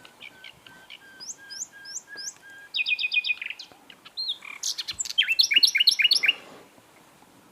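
Common nightingale singing. Soft steady whistles are overlaid with short rising high notes, then a quick run of repeated notes about three seconds in. About five seconds in comes a loud, rapid series of notes, ending about a second and a half later.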